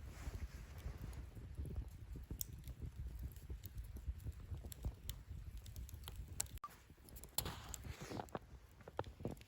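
Wood fire burning in a fire-pit stand, with scattered sharp crackles and pops over a steady low rumble. A short rush of hissing comes about eight seconds in.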